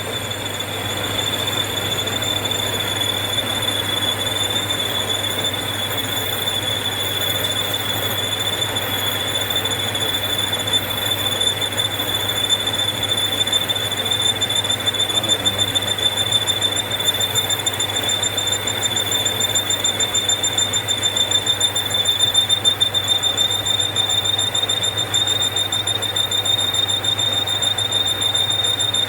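Metal lathe turning a turbine shaft, the cutting tool giving a steady high-pitched squeal over the machine's hum and cutting noise.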